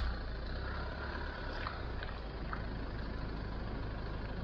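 Car engine idling steadily under a constant hiss of rain.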